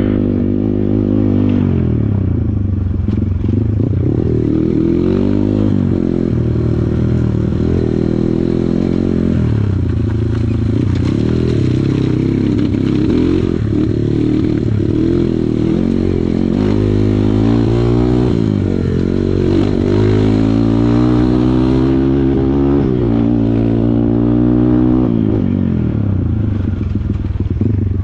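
Kawasaki KLX140 dirt bike's single-cylinder four-stroke engine being ridden hard. The revs rise and fall over and over, every few seconds, as the throttle is worked.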